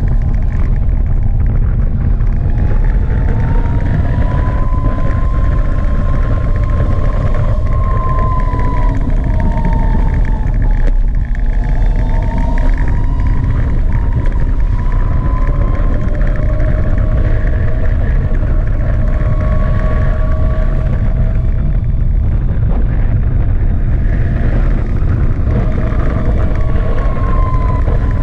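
Gogoro 2 electric scooter riding, its motor giving a whine whose pitch slowly rises and falls with speed, under a heavy, steady rumble of wind on the microphone.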